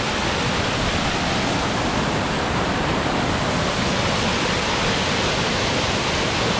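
Steady rush of falling water, like a waterfall or fast mountain stream close by.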